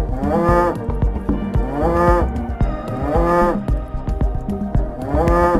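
A cow mooing four times, each moo rising slightly and then falling, over background music with a steady beat.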